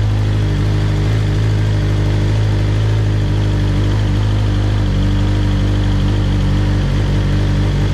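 2021 BMW motorcycle engine idling steadily through a newly fitted aftermarket exhaust, its pitch holding even throughout.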